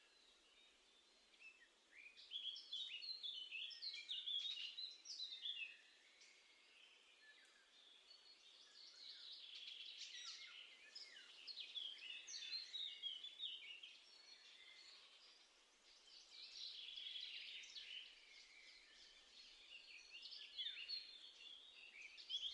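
Small songbirds twittering and singing in quick bouts of short chirps and trills, four bursts in all, with soft outdoor hiss between them.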